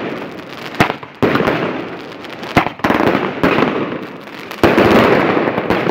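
Fireworks going off: several sharp bangs in irregular succession, each followed by a crackling tail that fades, the loudest bang near the end.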